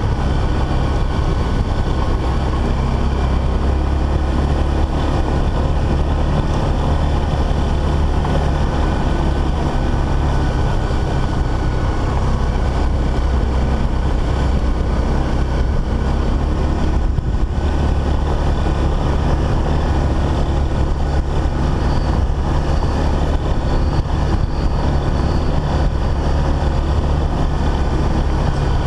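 Dual-sport motorcycle's single-cylinder engine running steadily while riding a rough dirt track, under a heavy low rumble, with a brief lull about halfway through.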